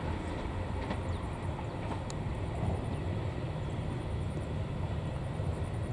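Train running past on the track, a steady low rumble.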